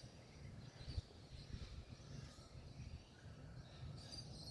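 Faint birds chirping outdoors, a few short high calls near the start and again near the end, over a low rumble.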